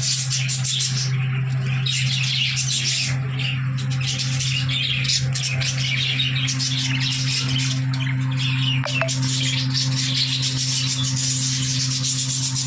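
A flock of budgerigars chattering, with dense continuous chirps and squawks, over a steady low hum.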